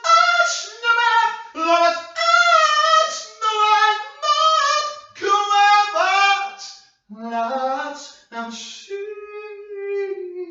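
A woman singing unaccompanied: a run of sung phrases with sliding notes, ending in one long held note near the end.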